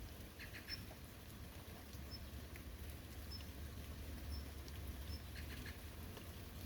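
Steady rain falling in a forest, drops pattering in small scattered clusters over a low, even rush. A short, high peep repeats about once every second or so above the rain.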